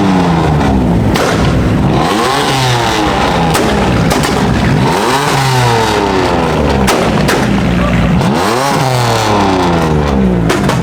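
Car engine revved hard over and over, the pitch climbing and falling back about four times, with several sharp pops in between.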